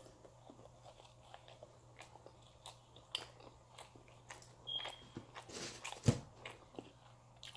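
A person chewing and biting pizza close to the microphone: scattered soft crunches and wet mouth clicks. There is one louder low thump about six seconds in.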